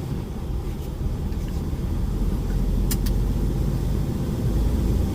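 DAF lorry's diesel engine running, a steady low rumble heard from inside the cab, with two quick sharp clicks about three seconds in.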